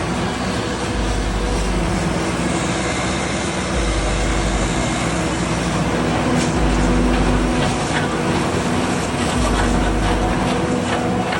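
Tractor engine running steadily under load while driving a four-row fodder harvester, a continuous heavy mechanical din with a low throb that comes and goes every few seconds.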